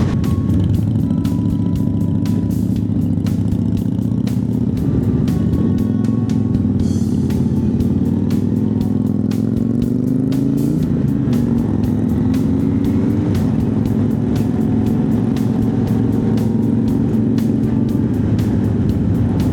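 Honda CB1100's air-cooled inline-four engine under way on the road. It pulls steadily, then its pitch climbs through a gear for several seconds, drops sharply at the upshift about eleven seconds in, and carries on steady.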